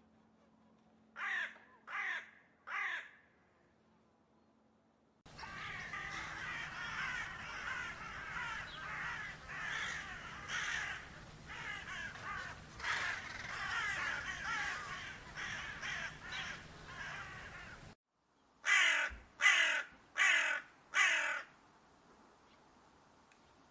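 Crows cawing: three harsh caws about a second in, then a whole flock cawing over one another for about twelve seconds, which cuts off abruptly. Four louder single caws follow in quick succession.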